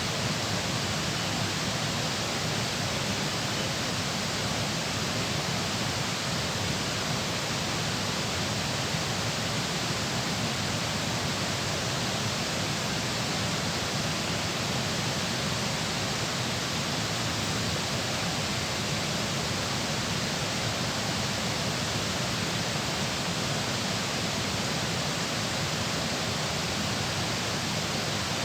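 Steady rush of flowing water at a dam, an even, unbroken noise.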